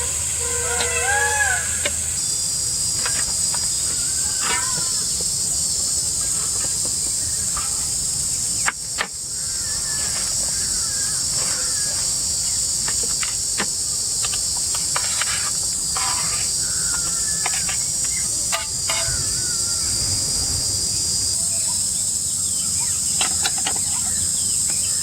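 Steady high-pitched insect chorus, with scattered light clicks and knocks, one sharper knock about nine seconds in, and a few short bird chirps.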